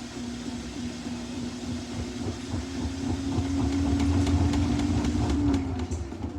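Samsung washing machine trying to spin up with a single jacket inside: the motor hum rises slightly in pitch over a low rumble and rapid knocking from the lopsided drum, then winds down near the end. The drum cannot reach full spin because one jacket alone leaves the load unbalanced.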